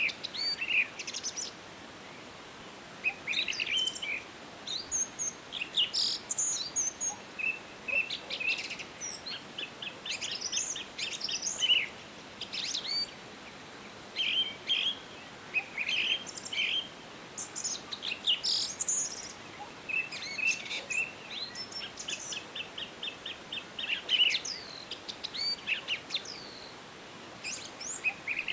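Several songbirds singing and calling over one another: short chirps, whistled notes and rapid trills, over a faint steady hiss.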